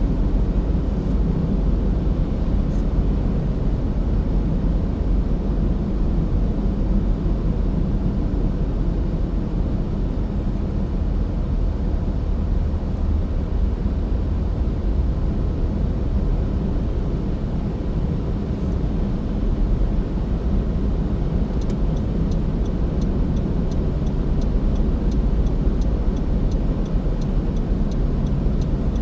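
A car driving, with steady low road and engine rumble. About three quarters of the way through, a fast, even ticking starts and keeps going.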